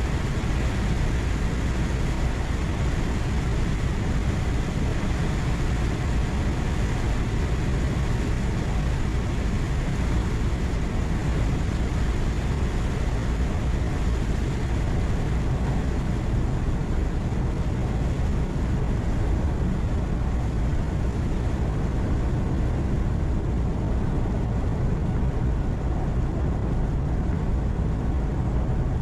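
Steady drone of a truck's engine and tyre and road noise heard inside the cab while cruising, heaviest in the low end and unchanging.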